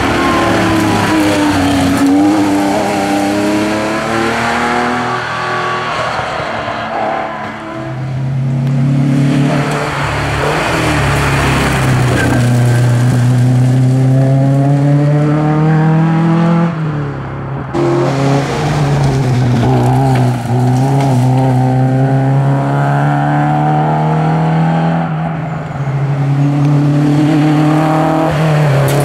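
Historic rally car engines revving hard on a special stage, their pitch climbing and falling again and again through gear changes and lifts off the throttle.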